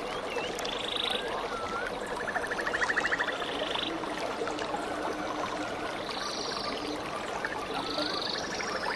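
Stream water flowing steadily, with birds calling over it: short hooked whistles and buzzy rapid trills repeating every second or two.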